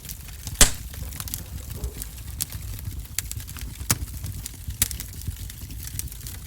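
Wood fire in a wood-burning stove crackling, with sharp irregular pops over a low steady rumble; the loudest pop comes about half a second in.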